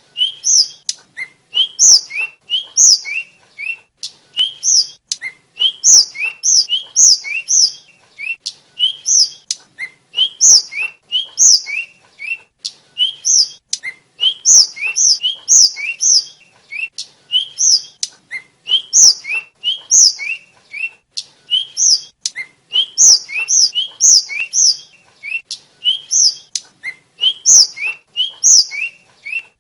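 Asian flycatcher (sikatan, known locally as tledekan or sulingan) singing a rapid, continuous chatter of short high chirps, several notes a second in quick phrases.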